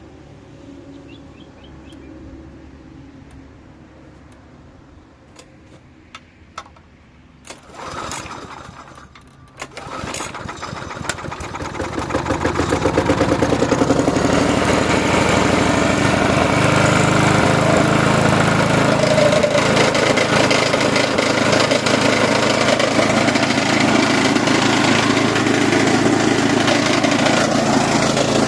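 Briggs & Stratton lawnmower engine pull-started: a few clicks, a pull around eight seconds in, then it catches about ten seconds in and settles into steady running. It is a run that didn't sound healthy, with the cutting blade not on right.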